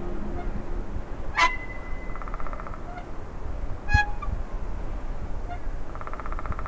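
Bird-like animal calls over a low steady rumble: a sharp call about every three seconds, with short rasping buzzes between them. A low droning tone fades out in the first second.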